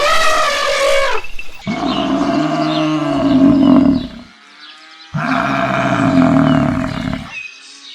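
A large farm animal calling: a shorter, higher call fades out in the first second, then come two long, low calls, each about two and a half seconds, with a short pause between them.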